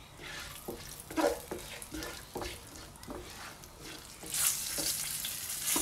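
Green chillies frying in a hot ghee tempering with cumin and red chilli in a wok, stirred with a spatula that scrapes and taps the pan. The sizzle is faint at first and gets louder about four seconds in.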